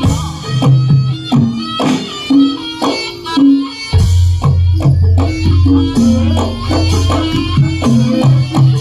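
Traditional Javanese jaranan music: drums and pitched percussion playing a steady rhythm, with a deep low tone coming in about four seconds in.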